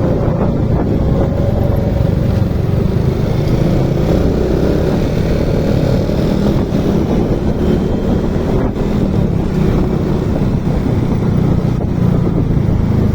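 Motorcycle engine running at a steady pace while riding, with wind buffeting the microphone.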